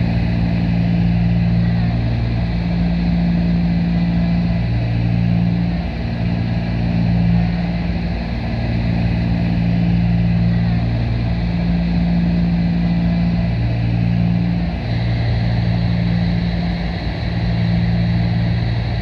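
The Cessna 310's twin piston engines and propellers running steadily in flight, a constant drone with a slow regular throb every two to three seconds, the beat of the two engines turning at slightly different speeds.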